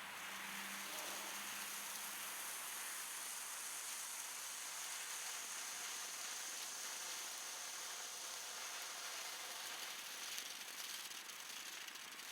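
Ground fountain firework burning with a steady hiss and a light crackle.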